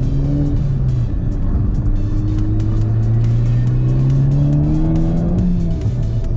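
Car engine under acceleration: its note dips about a second in, climbs steadily for about four seconds, then drops again as it shifts up and settles at a steady pitch.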